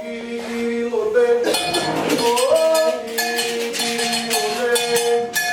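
Candomblé chant for Xangô, sung in long, sliding notes over a metal bell (agogô) struck in a quick, steady rhythm.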